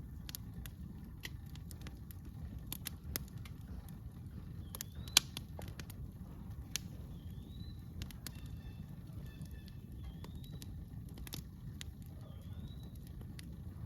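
Campfire crackling, with scattered sharp pops from the burning wood, the loudest about five seconds in, over a low steady rumble. From about five seconds in, a bird repeats a short rising call every two to three seconds.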